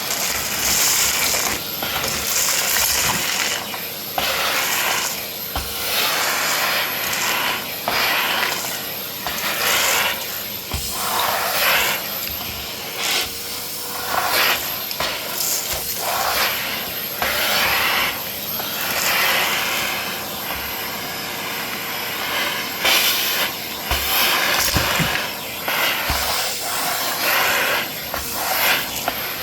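Vacuum cleaner running, with a steady motor hum and whine under a suction hiss that rises and falls as the nozzle moves, and scattered rattles and clicks of debris being sucked up.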